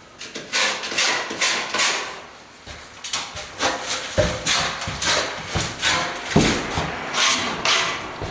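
Hand plastering tools worked against a wall or board in repeated short scraping strokes, about two a second, with a couple of heavier knocks partway through.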